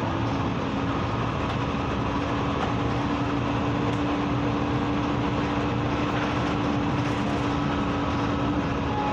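2009 Hyundai New Super Aero City city bus driving at a steady speed, heard from inside the cabin: engine and road rumble with one steady whine held throughout.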